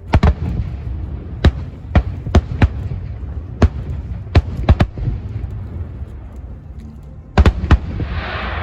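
Aerial fireworks bursting: about a dozen sharp bangs, several in quick pairs, over a steady low rumble, with a hissing crackle swelling near the end.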